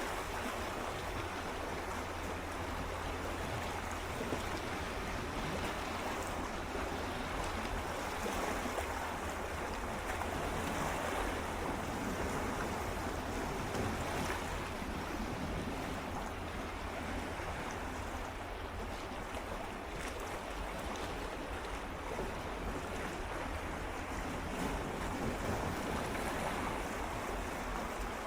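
Gentle sea waves swirling and lapping against shoreline rocks, a continuous wash of water that swells and eases every few seconds.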